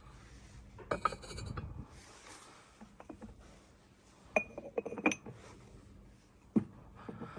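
Ceramic bathroom accessories clinking against each other and a shelf as they are handled. There are sharp clinks with a short ring about a second in, a quick run of them around the middle, and a single knock near the end.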